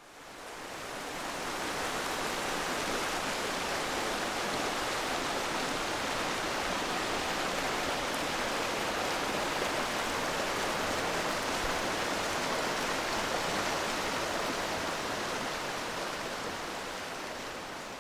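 Steady, even rushing noise like running water, fading in over the first couple of seconds and fading out near the end.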